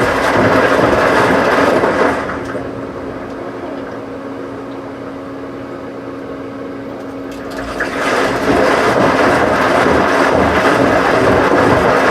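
Washing machine running: loud, even machine noise that drops after about two seconds to a quieter steady hum with a few held tones, then comes back loud near the two-thirds mark.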